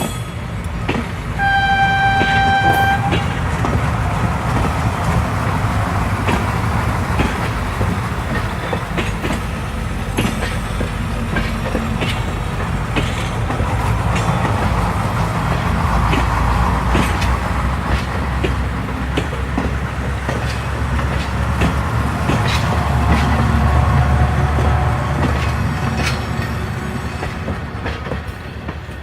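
Passenger train running on the rails, with a steady low rumble and irregular clicking of wheels over the track. A single horn blast of about a second and a half sounds about two seconds in.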